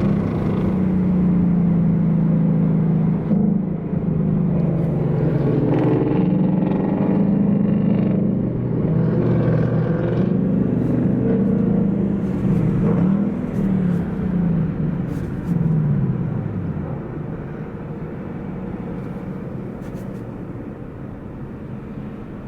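Ford Mustang's Coyote 5.0 V8 exhaust running at low revs with a steady deep note. Around halfway it swings up and down in pitch a few times, then fades away gradually.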